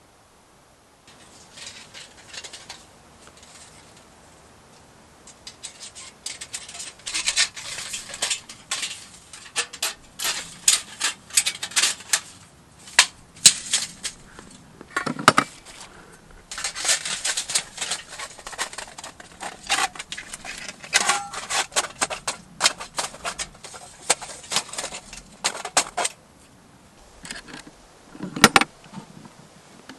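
Close-up handling noise: a long run of quick clicks, rattles and light clinks, as of small hard objects being handled and knocked together, with a short pause early on and a single louder knock near the end.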